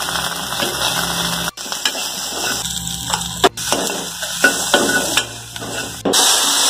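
Sliced onions and green chillies sizzling in hot oil in a kadai, with a metal spatula scraping and clinking against the pan. The sound breaks off abruptly about one and a half and three and a half seconds in, and comes back as a louder sizzle near the end.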